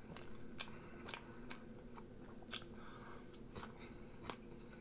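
Faint close-up chewing of a mouthful of burger, with irregular wet mouth clicks and smacks.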